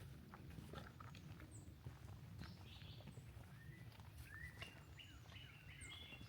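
Small songbirds chirping faintly, with short repeated notes and several upward-sweeping calls in the second half, over soft scattered footsteps on a trail.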